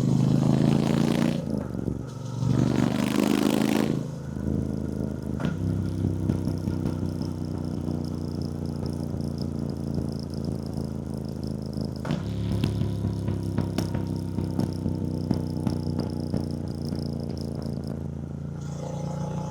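2024 Triumph Bonneville T120's 1200 cc parallel-twin engine running on the road. In the first few seconds bursts of rushing noise rise over it and the engine pitch shifts; it then holds a steady cruise, and the pitch climbs again near the end as the bike accelerates.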